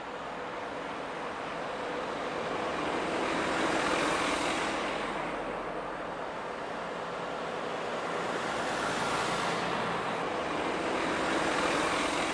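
Road vehicles passing by twice, tyre and engine noise swelling to a peak about four seconds in and again near the end, then fading.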